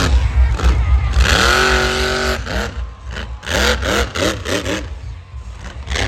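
Monster truck engines revving in short, repeated throttle bursts, pitch rising and falling several times a second, with one held high-revving note about a second in.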